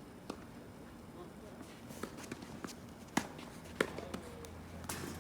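Tennis ball struck by rackets and bouncing on the court: a series of sharp pops a second or so apart, the loudest two about three and four seconds in.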